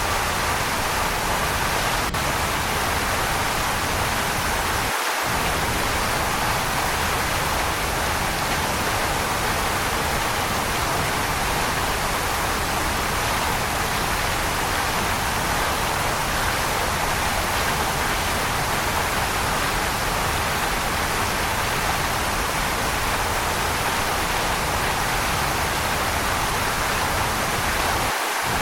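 Waterfall: a steady rush of falling water, even throughout. The deep part of the sound cuts out for an instant twice, about five seconds in and near the end.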